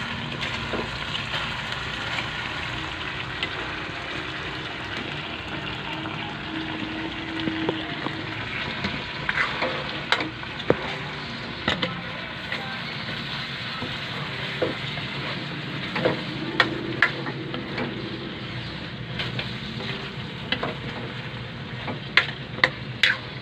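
Meat adobo in soy-and-vinegar sauce sizzling in a wok while a spatula stirs it, with a steady frying hiss. Sharp clicks and scrapes of the spatula against the pan come in clusters, about halfway through and again near the end.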